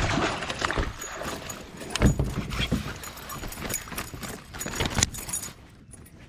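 Irregular knocks, clicks and rattles of gear being handled in a fishing kayak, with sharper knocks about two seconds in and about five seconds in, quieting near the end.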